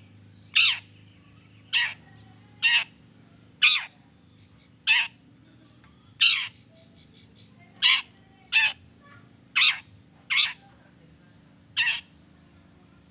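Long-tailed shrike (cendet) giving short, harsh calls, about eleven of them at roughly one a second with uneven gaps.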